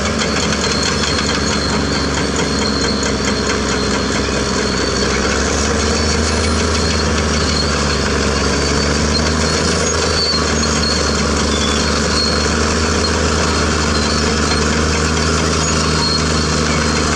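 Caterpillar D6R bulldozer's diesel engine running steadily, with a small shift in pitch about five seconds in.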